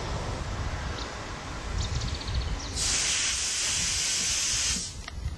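Railway coaches and baggage vans rolling past on the track with a steady low rumble of wheels on rails. About halfway through, a loud hiss comes in for roughly two seconds and cuts off abruptly.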